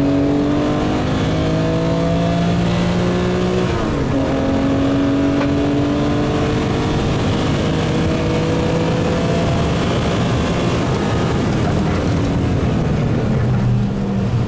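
BMW E36 M3 Evo's S50B32 straight-six engine under hard acceleration, its pitch climbing steadily. About four seconds in the pitch drops sharply at an upshift, then climbs again before falling gently over the last few seconds.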